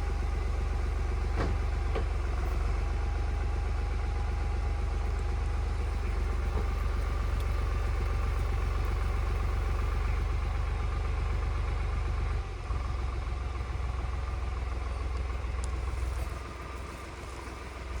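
Tractor engine running steadily with a deep drone; its note changes about two-thirds of the way through and drops briefly in loudness near the end.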